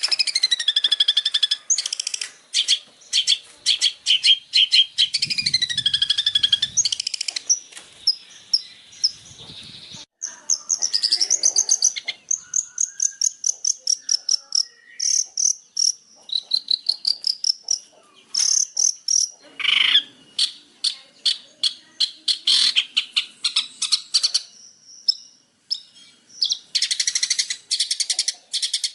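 Long-tailed shrike (cendet) singing a long, varied song of rapid chirp series, trills and rising and falling whistled slurs, with hardly a pause.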